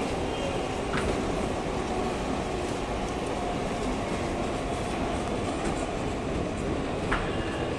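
A Mumbai Western Railway suburban EMU local train running past on the tracks, a steady running noise with two sharp clanks, one about a second in and one near the end.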